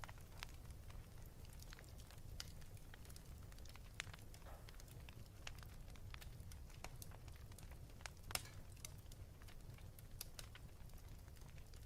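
Wood fire crackling in a fireplace: faint, irregular pops and snaps over a steady low rumble, with a sharper pop about 8 seconds in.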